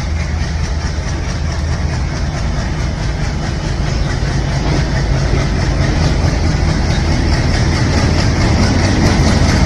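Diesel engine of an ALCo WDM-3D locomotive, a 16-cylinder ALCo 251 engine, running steadily with a deep low throb that slowly grows louder.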